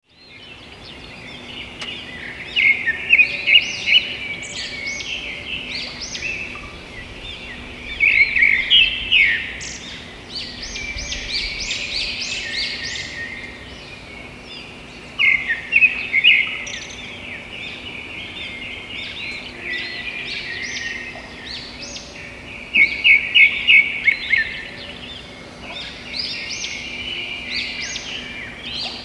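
Birds chirping and twittering, with several louder flurries of rapid chirps a few seconds apart, over a faint steady hum.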